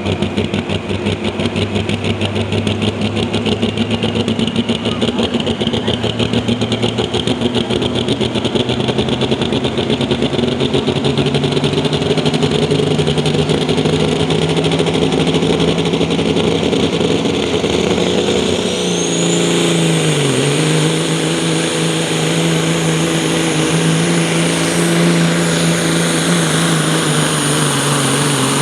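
Diesel engine of a Mack pro stock pulling semi running at full throttle under load, its pitch slowly climbing, dipping briefly about two-thirds of the way through, then holding high. A thin high whine rises over the engine around the dip.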